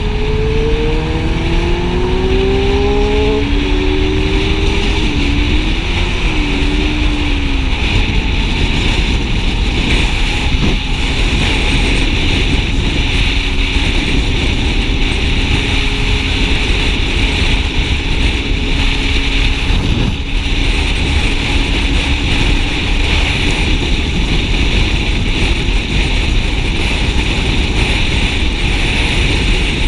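Motorcycle engine and heavy wind noise while riding on a highway. The engine pitch rises as it accelerates over the first few seconds, dips briefly about a quarter of the way in, then holds steady at cruising speed.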